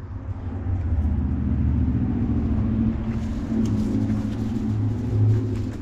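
Low, steady rumble of a motor vehicle's engine running nearby.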